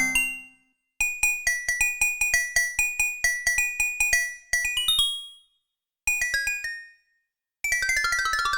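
Roland JX-8P analog polysynth playing a patch of short, percussive high notes. A quick run of repeated notes, a gap and a short phrase lead into a fast falling run of notes near the end.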